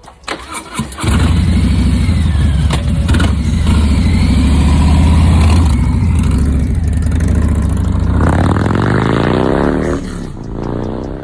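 Harley-Davidson Street Bob's V-twin engine cranking, catching after about a second and running loudly. Near the end the revs climb, then fall away.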